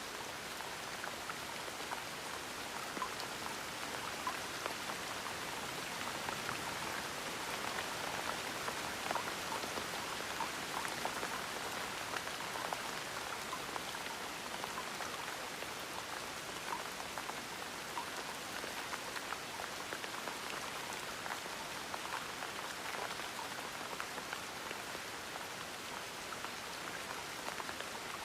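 Gentle rain falling steadily, a dense patter of many small drops on a surface.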